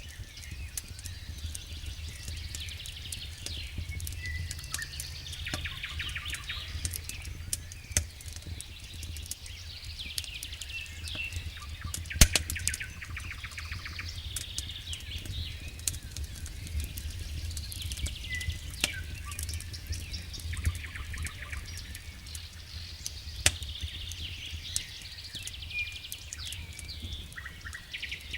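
Wood fire burning in a fireplace: dense crackling over a low, steady rumble of flame, with several sharp pops, the loudest about twelve seconds in.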